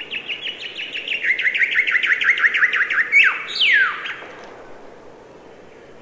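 A bird singing: a quick run of short falling chirps, about eight a second, ending about three seconds in with two longer downward-sliding notes.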